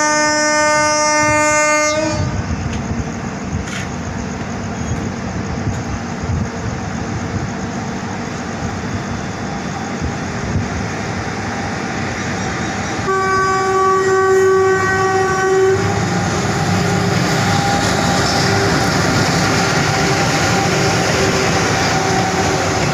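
Goods train headed by twin WCAM-3 electric locomotives approaching and passing: a locomotive horn blast for about the first two seconds, a second, higher-pitched horn blast of nearly three seconds about halfway through, then louder rumbling of the locomotives and tank wagons running past for the last several seconds.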